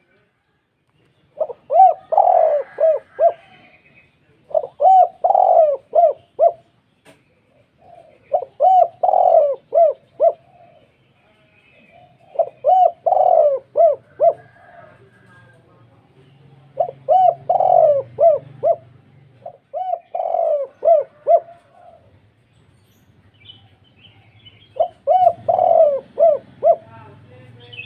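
Spotted dove (tekukur) cooing: a deep, full-voiced call of several quick notes, repeated seven times about every three to four seconds.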